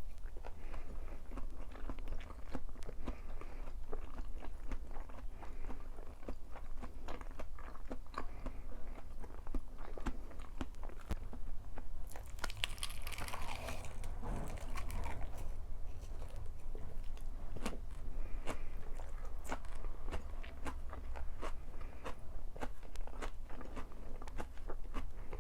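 Close-miked eating sounds: biting and chewing crunchy food, with many small sharp clicks and crunches. About halfway through there is a louder hissing burst lasting a couple of seconds.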